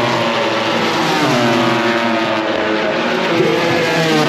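MotoGP race motorcycles running on track, their 1000 cc four-cylinder engines at high revs. The engine note dips and then climbs again about a second in, then keeps shifting in pitch.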